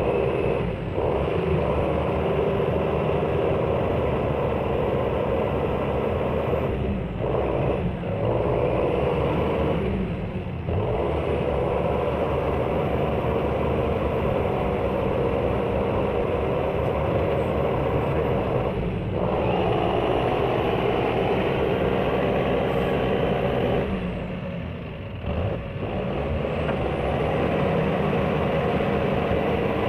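Heavy tractor engines running hard under load, a steady dense engine noise broken a few times by brief drops where one clip gives way to the next.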